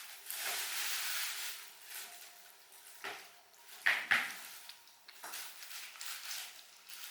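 Eating sounds close to the microphone: bursts of hissing, rustling noise and two sharp clicks of utensils against a dish about four seconds in.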